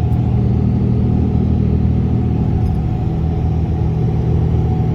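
Steady drone of a vehicle's engine and tyres at cruising speed, heard from inside the cab while driving through a road tunnel.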